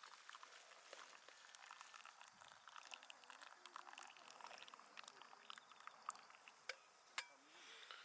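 Faint, irregular small clicks and crackles, with a sharper ringing clink right at the end.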